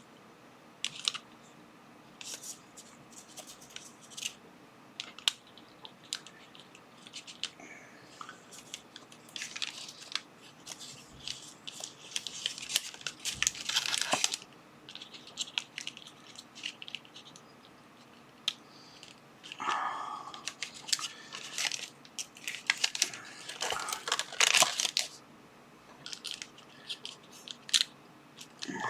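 Paper wrapping rustling, crinkling and tearing as it is handled, in bursts with scattered small clicks and taps between them.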